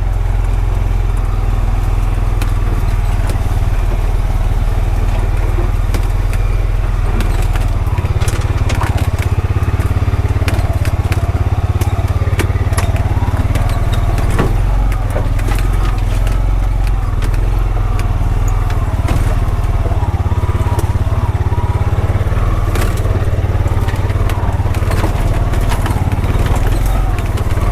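Honda Pioneer 520 side-by-side's single-cylinder engine running steadily as it drives over rough ground, with many scattered clicks and knocks over a constant low rumble.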